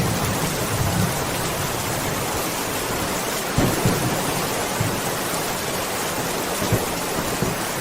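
Steady rain hissing, with low rolls of thunder rumbling underneath, swelling near the start and again about three and a half seconds in.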